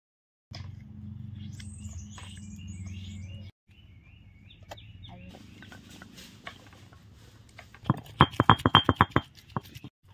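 Small birds chirping over a low steady hum, in short spliced segments. Near the end comes a quick run of loud, sharp pulses lasting about a second and a half.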